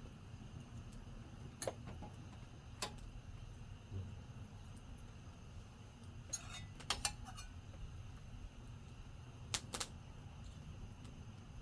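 Wood campfire crackling: scattered sharp pops, a quick cluster of them about midway and a pair near the end, over a low steady background.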